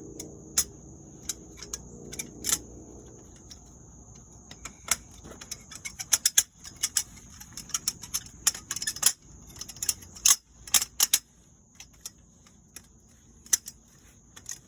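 Irregular small clicks and clinks of metal hardware, bolts, washers and the canopy's steel frame bars, being handled and fitted together, thickest in the middle. A steady high insect trill, like crickets, runs underneath.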